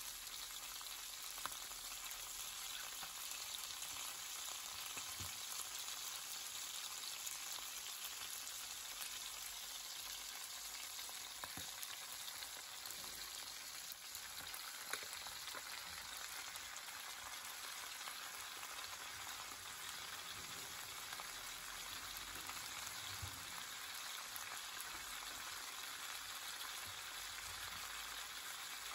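Floured chicken pieces and garlic frying in olive oil in an enamelled pan: a steady sizzle with a few small pops.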